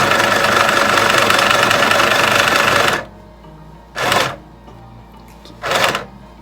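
Mini sewing machine stitching through fabric: it runs steadily for about three seconds and stops, then gives two short bursts of stitching, each about half a second long.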